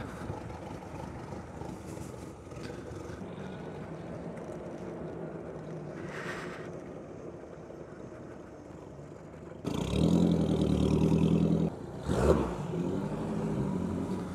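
Motor vehicle engines idling with a steady low rumble, then a nearby engine running much louder for about two seconds about two-thirds of the way through, followed by a shorter loud burst.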